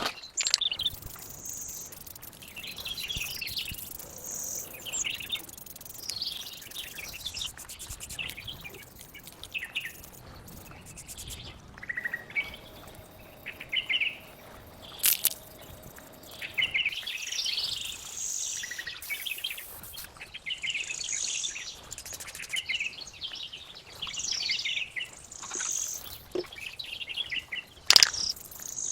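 Birds chirping and singing in short repeated phrases, with a couple of sharp clicks, the louder one near the end.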